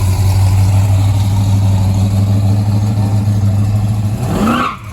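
Loud engine of a custom truck running at steady revs. The sound falls away about four seconds in.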